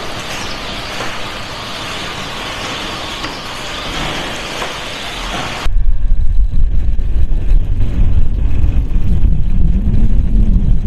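Steady hiss of running machinery. About six seconds in it switches abruptly to a louder, low rumble of a farm vehicle being driven.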